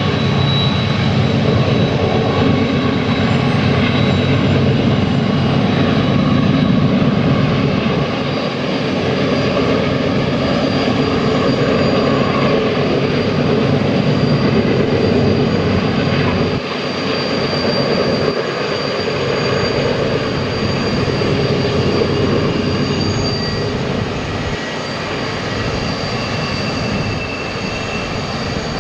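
A long train running by: a loud, continuous rumble of engine and wheels, with faint steady high whines over it, easing off a little in the second half.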